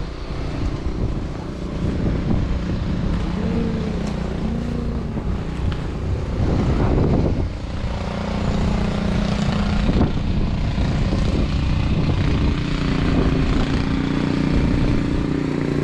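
An engine running steadily, its low hum wavering slightly in pitch now and then.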